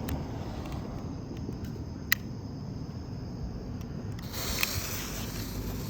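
A smoke bomb firework starts to fizz about four seconds in, a high hiss of sparks over a steady low rumble. There is one sharp click about two seconds in.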